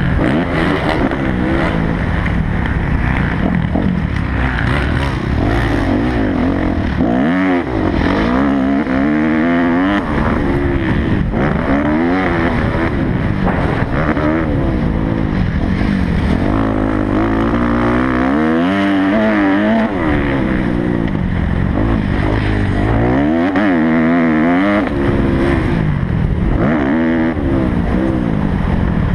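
Kawasaki motocross bike's engine at full practice pace, revving up and falling back in pitch many times as the throttle is opened and closed through the track's sections.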